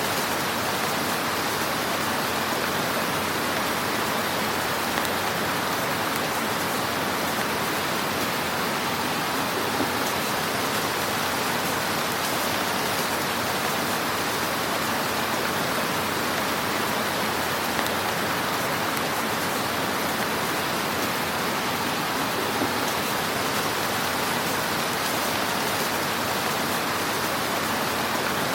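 Wood fire in a fireplace crackling: a steady hiss of fine crackles with a few louder pops here and there.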